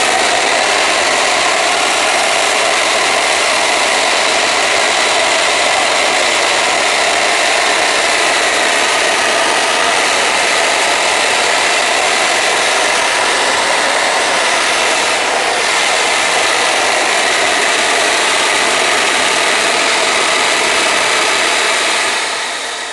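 Homemade student-built turbojet engine running steadily: a loud, even rushing noise with faint steady whining tones. Near the end the level starts to drop as the engine begins to wind down.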